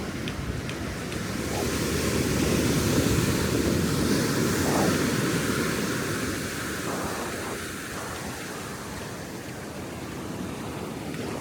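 Ocean surf breaking on the beach: the wash swells about two seconds in, then slowly subsides, with a low wind rumble on the microphone underneath.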